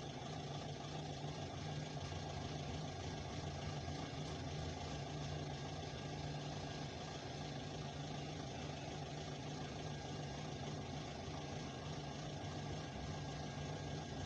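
A long freight train rolling slowly past a level crossing, heard from inside a waiting car with its engine idling: a steady low hum under an even noise, with no distinct clanks.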